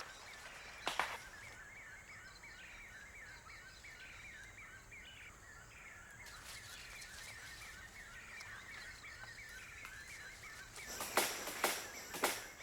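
Rainforest ambience: a steady series of short chirps, about four a second, with a sharp crack about a second in and a cluster of loud cracks and snaps near the end.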